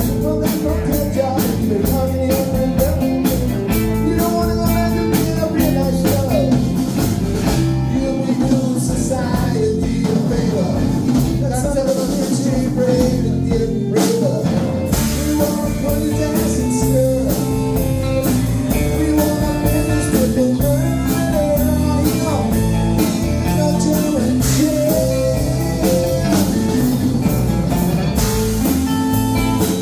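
Blues-rock band playing: guitar lines over bass and drums, with no clear words sung.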